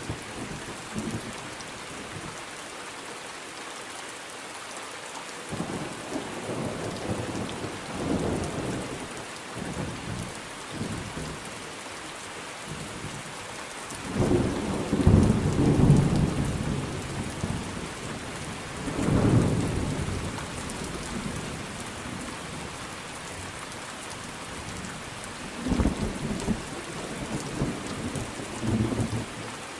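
Steady rain falling, with thunder rumbling in several rolling swells; the loudest comes about halfway through, and a shorter one near the end.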